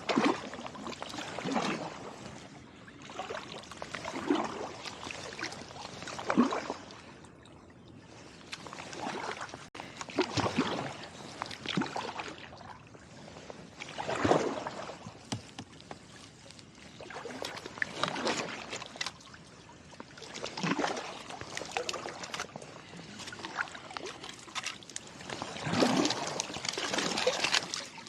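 Kayak paddle strokes in open water: a splash and drip from each blade, alternating sides about every one to three seconds, with water trickling off the paddle between strokes.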